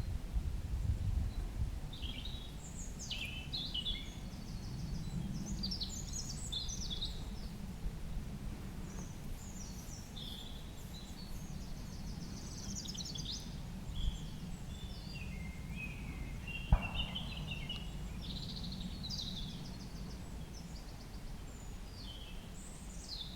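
Several songbirds singing in spring woodland: many short chirps, trills and phrases overlapping, over a steady low background rumble. One sharp knock sounds about two-thirds of the way through.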